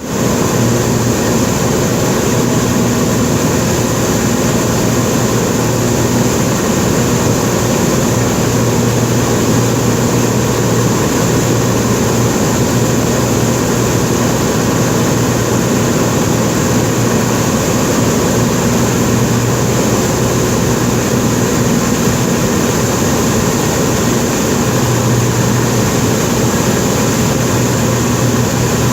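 Cessna 207's single piston engine and propeller running steadily, a loud even drone with no change in pitch.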